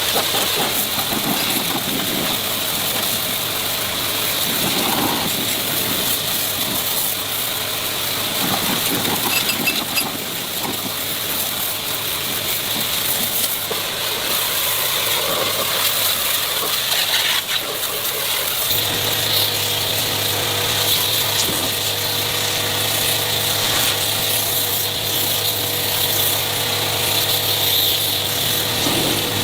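Mixed workshop noise, then about two-thirds of the way in a machine's motor starts up and keeps running with a steady hum.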